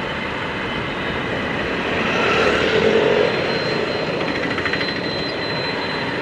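Motorcycle ride recorded on an action camera: a steady rush of engine and road noise in traffic. It swells briefly about two to three seconds in.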